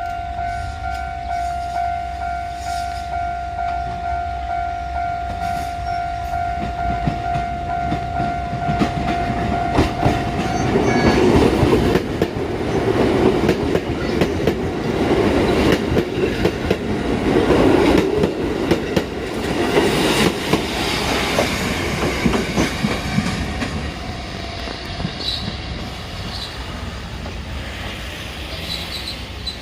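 Kotoden electric train passing over a level crossing, its wheels clacking in a pulsing rhythm over the rail joints as it goes by, loudest in the middle and fading toward the end. Before it arrives a steady high tone sounds and stops about a third of the way in.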